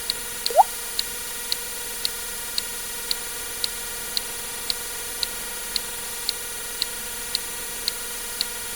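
Water drip sound effect: a single quick rising plop about half a second in, the loudest sound. Underneath, a steady tick about twice a second and a constant hiss.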